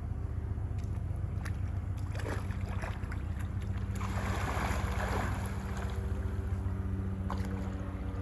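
A motor running steadily with a low hum. A few clicks and a brief rushing noise about four to five seconds in.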